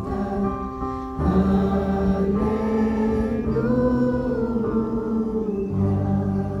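Worship music: a group singing a Spanish worship song, holding the last word "canta" over sustained chords that change twice, as the song winds down.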